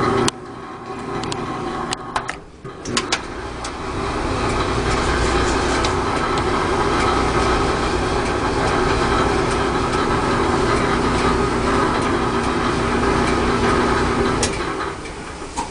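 Whirlpool LE5650XMW2 dryer running with a rattling noise, which comes from a failing idler pulley. It cuts out just after the start, a few clicks follow, and it starts again and runs up to a steady speed within a couple of seconds. It then winds down near the end.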